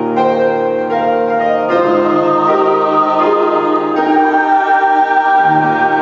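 Chamber choir singing sustained chords with keyboard accompaniment, the harmony shifting to a new chord about two seconds in and again near four seconds.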